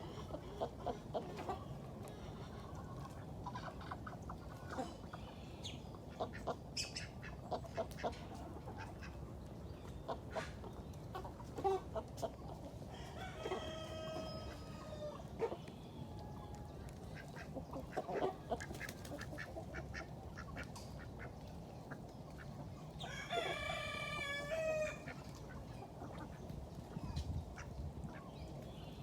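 Chickens clucking with many short calls, and a rooster crowing twice, about halfway through and again near the end.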